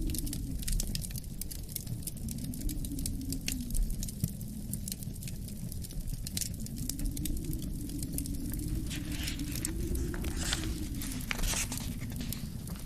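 Wood fire crackling with a steady stream of small pops, a few sharper hissing pops near the end, over a low wind that swells and fades in slow gusts.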